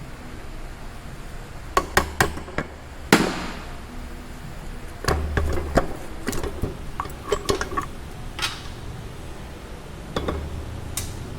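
Metal engine parts and hand tools clinking and knocking during engine disassembly. There are a few sharp clicks about two seconds in, a heavier knock with a short ring about three seconds in, then a run of light metallic clinks.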